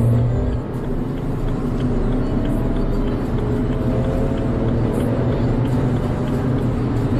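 Car engine under hard acceleration, running loud and steady, its pitch climbing slowly as the revs rise.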